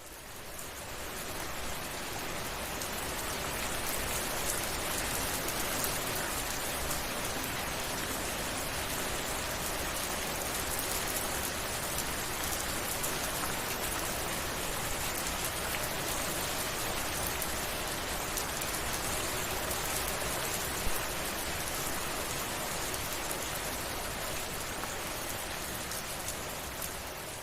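Steady rain falling, a dense even hiss of drops that fades in over the first few seconds and then holds steady. One sharper drop hit stands out about three-quarters of the way through.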